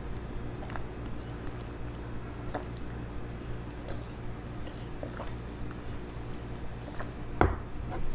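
Close-miked drinking sounds: small sips and swallows of coffee, with a louder knock about seven seconds in.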